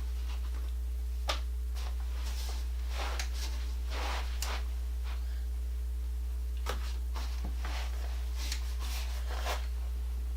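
Steady low hum throughout, with scattered small clicks and short rustles of parts and tools being handled while an exercise bike is assembled; the sharpest click comes about a second in.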